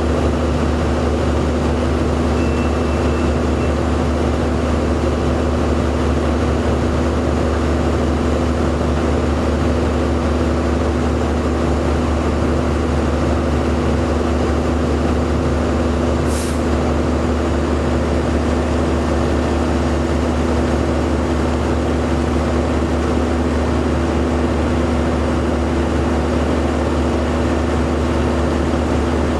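A large engine running steadily at idle, a constant low hum, with one short hiss about sixteen seconds in.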